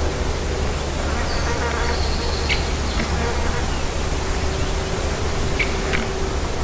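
Steady outdoor hiss with a low hum and a faint steady buzz, broken by short, sharp, high bird notes: one about a third of the way in and two in quick succession near the end.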